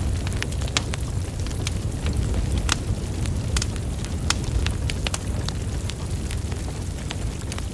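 Wood fire burning logs: a steady low rumble of flames with frequent irregular crackles and sharp pops.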